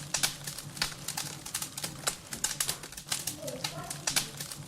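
Rapid, irregular clicks and knocks, several a second, over a low steady hum.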